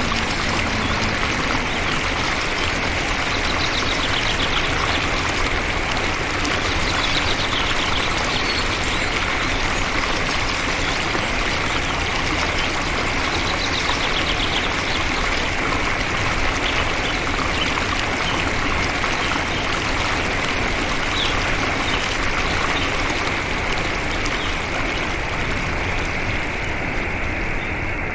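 Flowing water rushing steadily and evenly, like a stream.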